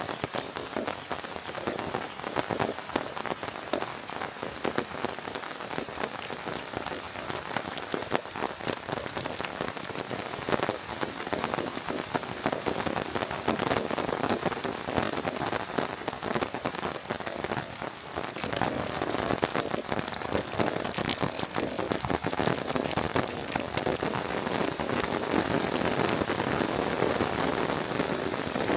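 Steady rain falling, with many close drops ticking sharply through the patter; it grows a little heavier in the second half.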